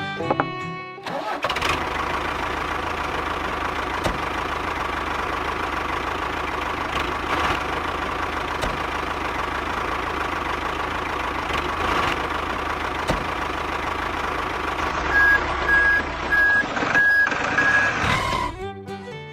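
A truck engine running steadily, with a reversing alarm beeping repeatedly near the end. A moment of background music can be heard at the very start and again at the very end.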